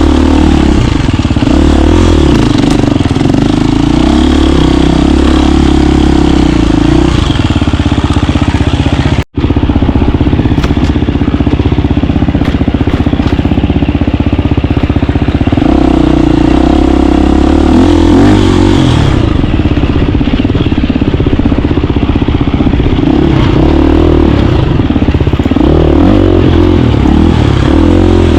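KTM 350 dirt bike's single-cylinder four-stroke engine running loud and close while riding, its note shifting up and down several times as the throttle changes. The sound cuts out for a split second about nine seconds in.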